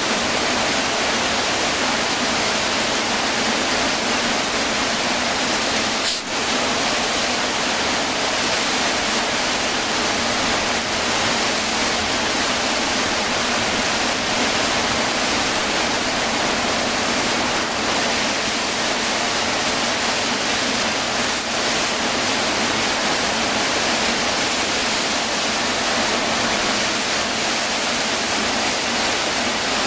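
Heavy rain falling steadily, an even rushing hiss with a brief dip about six seconds in.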